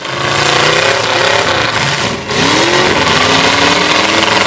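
Demolition derby cars' engines running and revving, their pitch rising and falling, with a brief dip about two seconds in.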